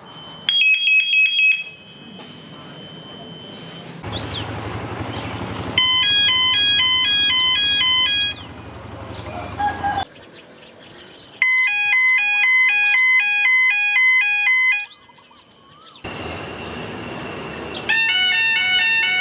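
Electronic chime of a Thai railway station's blue lamp signal: a rapid, repeating pattern of alternating beeping tones, sounded in four separate bursts of one to three seconds. Between the bursts there is outdoor station ambience with bird chirps.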